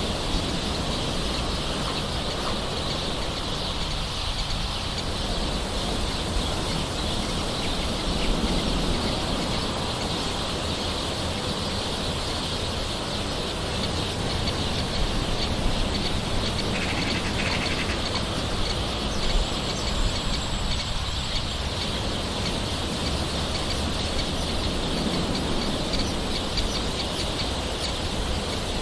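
Steady hiss of gentle rain with birds calling in the background.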